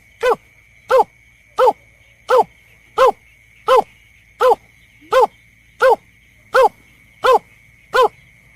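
Lure recording of the berkik (belkek) bird's call: a short, arched, hooting note repeated steadily about every 0.7 seconds, twelve times. A thin, steady high whine runs behind it.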